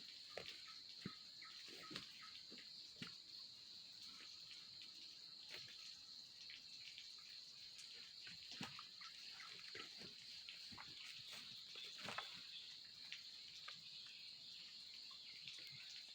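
Steady, high-pitched chorus of crickets or similar insects, faint, with scattered soft clicks and ticks.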